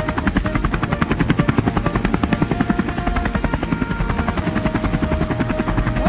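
Helicopter rotor chopping in a fast, even, unbroken beat as the helicopter hovers.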